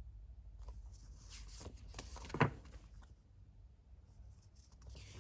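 Paper sticker sheets being handled and rustling, with one short, louder knock about two and a half seconds in.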